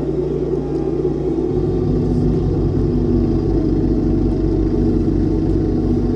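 John Deere X738 garden tractor's engine running steadily under load with its front-mounted PTO snowblower, a continuous rumble whose low tone shifts about a second and a half in.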